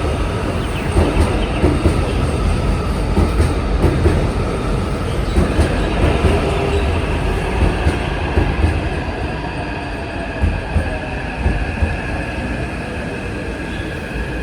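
Taipei Metro C381 train running into the station and slowing: a low rail rumble with wheel clicks over the track and a steady electric motor whine that drops in pitch and fades as it brakes.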